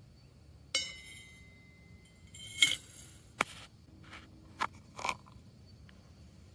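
A ringing clink like glass or dishware being struck, fading over about a second. It is followed by a louder, short clatter and three sharp knocks.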